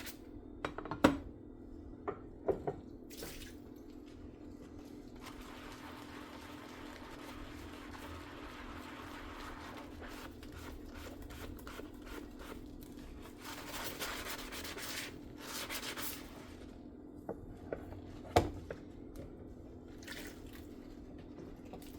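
Dishes being hand-washed at a kitchen sink: water dripping and trickling and a sponge squishing, with a few sharp clinks of dishes about a second in, twice around two and a half seconds in, and once more about three-quarters of the way through. A steady low hum runs underneath.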